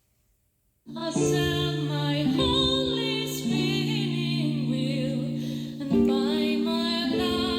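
Soundcore Boom 2 portable Bluetooth speaker playing music in its Treble boost preset with bass-up. After about a second of silence, a song starts: sustained chords under a singing voice.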